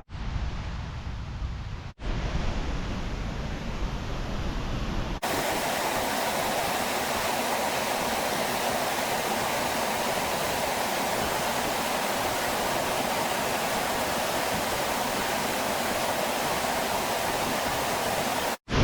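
Waterfall: a steady, even rush of falling water from about five seconds in. Before it come a few seconds of low rumbling, split by two abrupt cuts.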